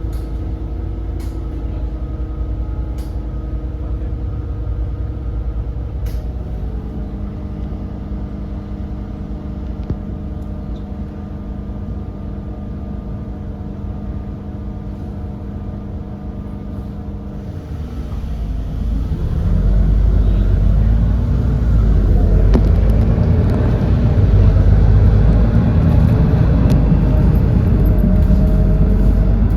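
Doosan GX12P natural-gas engine of an Edison Motors Smart 110G city bus idling with a steady low hum. About 18 seconds in it revs up, getting louder with its pitch rising and shifting as it works under acceleration.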